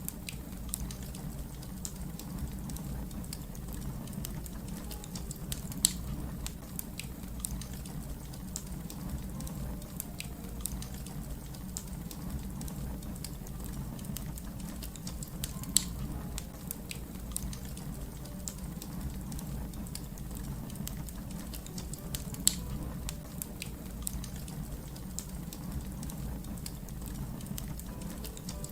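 Wood fire crackling: a steady low rumble of burning under frequent sharp crackles and snaps, with a few louder pops now and then.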